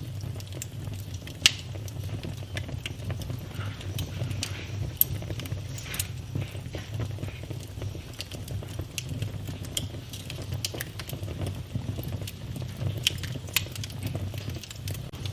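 Wood fire in a fireplace crackling, with a low steady rumble of flame and scattered sharp pops and snaps; the loudest pops come about a second and a half in and around five seconds in.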